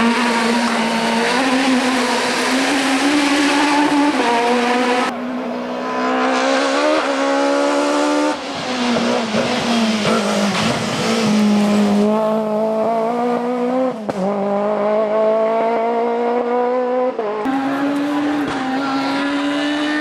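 Rally kit car engine revving hard, its pitch climbing under acceleration and dropping sharply at each gear change, several times over.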